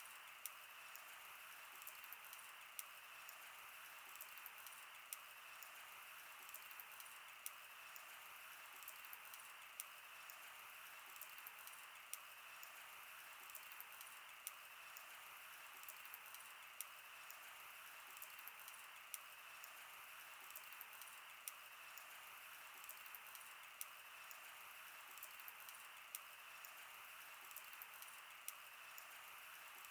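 Wood fire burning: a soft steady hiss with frequent irregular crackles and pops, several a second.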